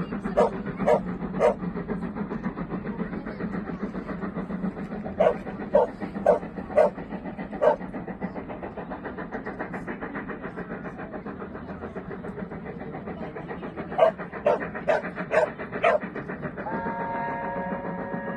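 Train running with a steady low rumble, while a dog barks in three bursts of four or five barks. Near the end a multi-chime train air horn begins sounding a steady chord.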